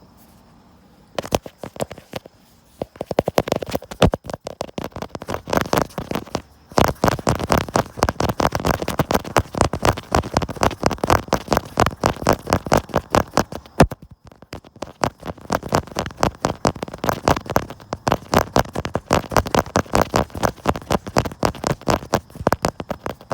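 Fingers tapping quickly on a camera body, close to the microphone, in fast runs of several taps a second. Short pauses break the runs, and the first second is quiet.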